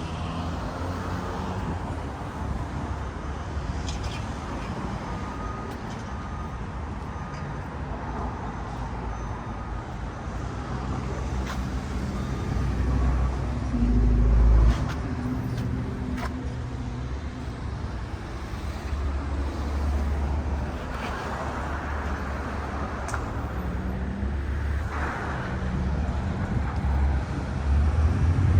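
Street traffic: cars driving past with engines running and tyre noise, in a steady rumble that swells briefly as heavier vehicles pass.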